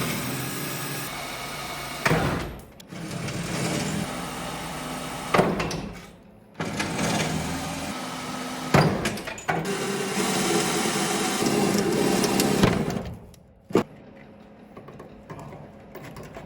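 A handheld power tool running in several bursts of a few seconds each, stopping abruptly between them, as bolts are worked loose on old truck body panels; it goes quieter near the end.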